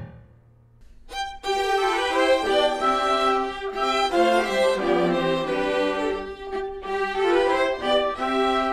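A short hush, then bowed strings led by violins start playing a sustained melody about a second in.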